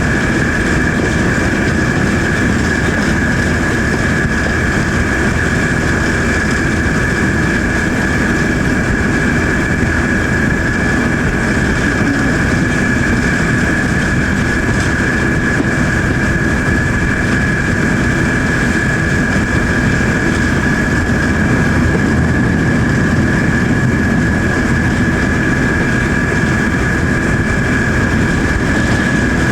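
Diesel locomotive running steadily, heard from a train riding behind it, a low engine drone under a steady high-pitched whine. The sound cuts off abruptly at the very end.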